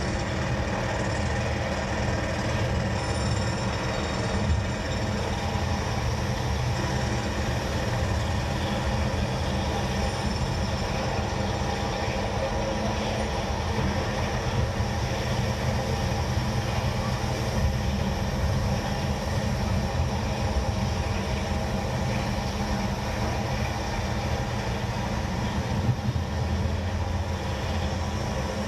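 Steady mechanical rumble with a constant low hum and faint steady tones above it.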